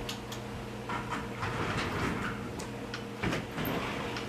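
Casablanca Panama ceiling fan's motor humming steadily, with scattered light clicks and clatter over it.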